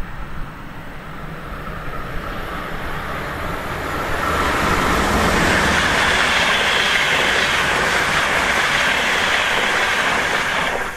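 A Siemens Desiro HC (class 462) double-deck electric multiple unit approaches and passes close by at speed. Its rush of wheel and rail noise builds over the first few seconds and is loud from about four seconds in.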